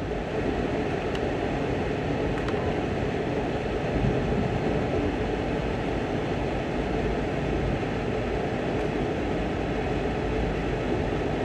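Steady running noise of an Amtrak Auto Train passenger car rolling at speed on the rails, heard from inside the car, with a few faint ticks.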